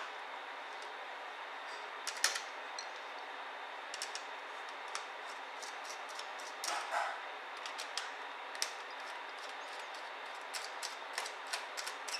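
Scattered light clicks and taps from small tools and laptop parts being handled during disassembly, with a brief scraping sound about seven seconds in, over a steady hiss.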